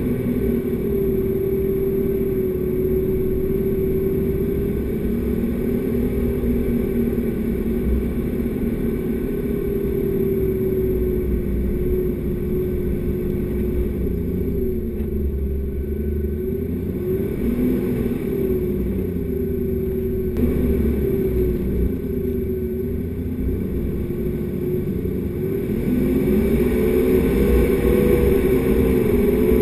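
Four-wheel-drive vehicle's engine working as it drives through soft sand, its pitch rising and falling with the throttle. It revs higher and louder near the end.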